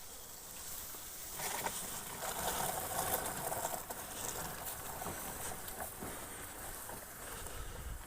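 Dead branches being dragged over wet woodland ground: a steady scraping and rustling with scattered snaps, loudest from about one and a half to four seconds in.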